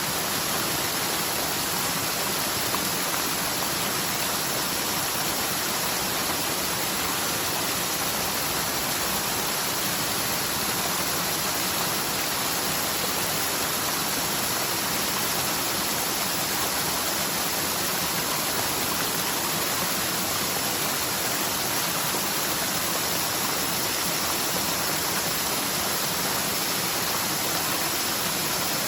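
Rain-swollen mountain stream, normally almost dry, rushing steadily over its bed after a typhoon's heavy rain.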